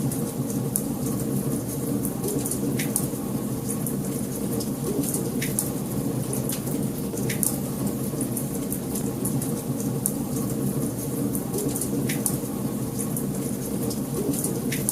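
Wood fire burning in a fireplace: a steady low rumble with scattered small crackles and a few sharper pops.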